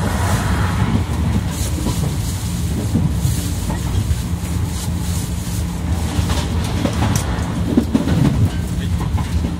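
Cabin running noise of a 381 series tilting express train carriage on the move: a steady low rumble and hum from wheels and running gear, with scattered clickety-clack as the wheels cross rail joints.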